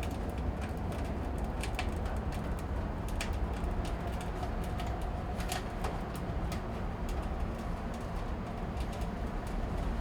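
Freshly lit log fire burning in a closed wood-stove firebox: a steady low rumble of the draft with scattered sharp crackles and pops from the wood, the firebox climbing toward about 500 degrees.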